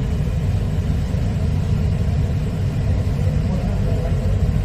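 Kolkata Metro train running through the tunnel under the Hooghly River, heard on board as a steady low rumble.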